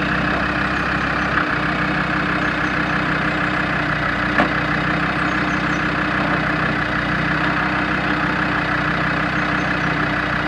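Land Rover Defender TD5 five-cylinder turbodiesel idling steadily, with one brief click about four seconds in.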